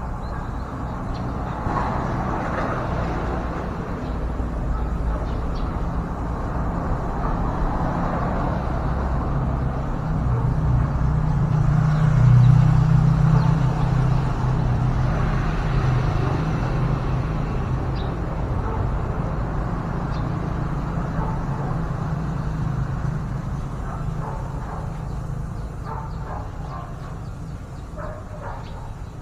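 Low engine rumble of a motor vehicle, swelling to its loudest about halfway through and then slowly fading.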